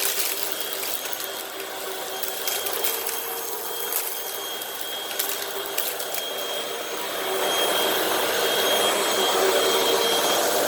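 Hoover WindTunnel High Capacity Pet upright vacuum running with a steady motor whine, crackling and clicking as it sucks up dirt and debris from the carpet. It gets louder about seven seconds in.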